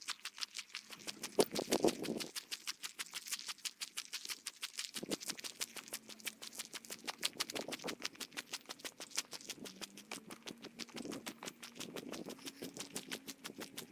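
Footsteps on a forest trail, played back at triple speed so they run together into a rapid, even patter of about six steps a second.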